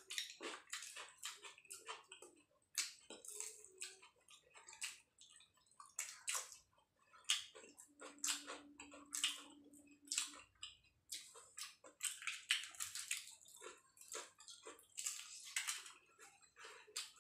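Close eating sounds: wet chewing and crunching of fried singaras, a dense run of short smacks and clicks. A steady low hum lasts about two seconds near the middle.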